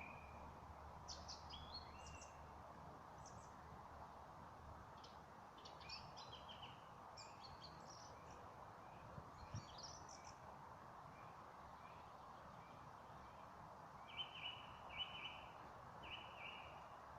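Several birds singing faintly: scattered short chirps and trills, then a run of four repeated notes near the end, over a steady faint hiss.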